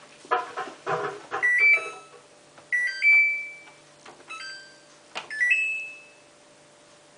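Samsung WF8804RPA washing machine control panel beeping as its buttons are pressed. There are button clicks, then three short beeps that each step up in pitch.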